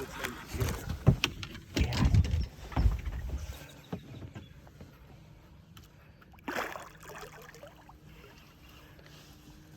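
Knocks and water noise on a small fishing boat while a hooked sturgeon is being fought: a cluster of heavy low thumps in the first few seconds, then a short splash-like burst about six and a half seconds in.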